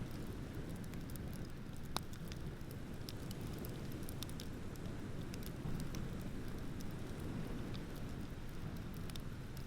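Bonfire crackling: scattered small pops and snaps over a steady low rumble, with one sharper pop about two seconds in.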